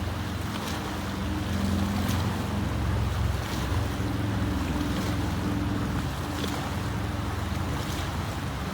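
River water running fast, with wind buffeting the microphone and a steady low hum underneath.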